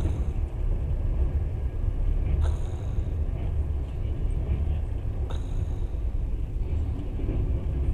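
Passenger train running along the line, heard from inside the carriage as a steady low rumble, with a sharp click roughly every two and a half seconds.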